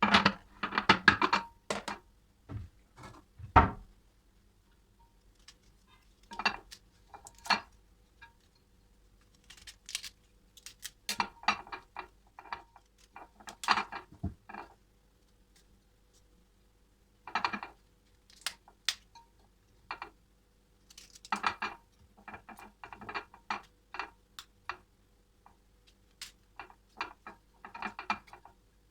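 Irregular clinks, knocks and clatters of kitchen containers and dishes being handled and set down, in short clusters with gaps between.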